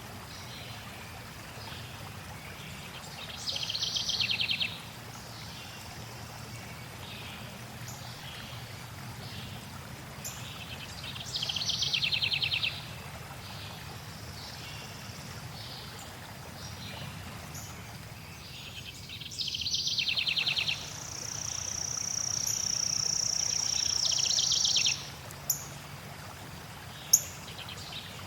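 Songbirds singing over the steady rush of flowing water. A rapid trilled song repeats about every eight seconds, a long high steady whistle is held for about four seconds in the second half, and two short sharp chirps come near the end.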